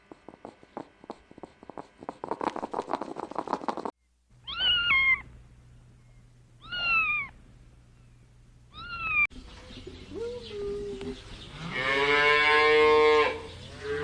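Domestic cat meowing: three short, high meows about two seconds apart, then a longer, louder meow near the end. It is preceded by a run of rapid clicks in the first few seconds.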